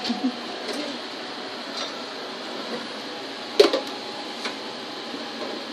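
Peppers and onion sizzling steadily as they fry in a pan, with a few sharp knocks of a utensil against the pan, the loudest about two-thirds of the way through.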